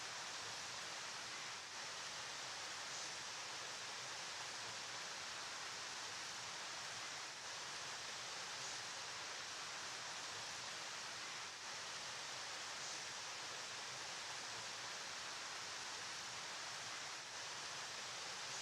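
River water flowing in a steady, unbroken rush, with no separate splashes or other sounds.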